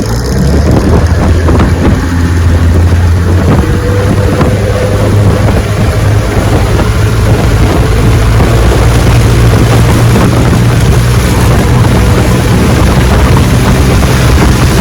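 1968 Evinrude 9.5 hp two-cylinder two-stroke outboard running steadily, pushing the boat under way, with water rushing and wind buffeting the microphone.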